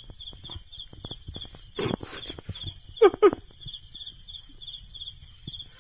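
Insect chirping, a high chirp repeating about three times a second, with two short, loud animal calls close together about three seconds in.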